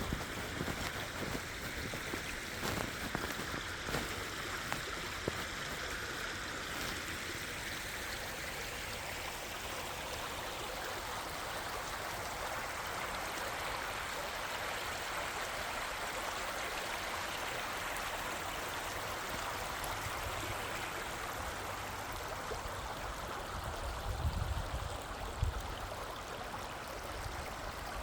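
River water flowing steadily over rocks, a continuous rushing hiss.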